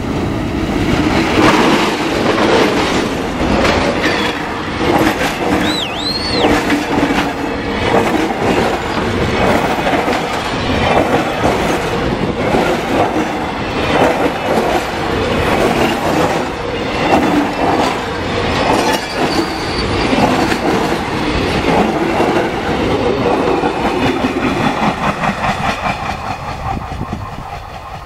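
Diesel-hauled passenger train passing close by: the locomotive goes by, then a long run of coaches with steady wheel clatter over the rail joints. The clatter fades near the end as the train moves away.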